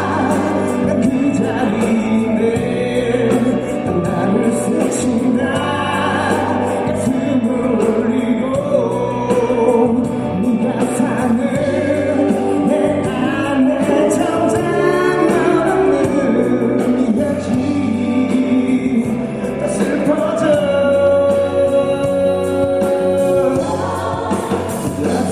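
Live performance of a ballad: a male singer's voice carrying the melody over musical accompaniment, with one long held note a few seconds before the end.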